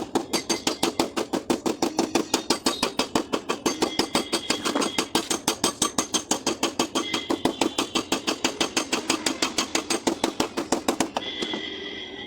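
Small hammer tapping the sheet metal of a car door in quick, even strokes, about six a second, during paintless dent repair. The tapping stops about a second before the end.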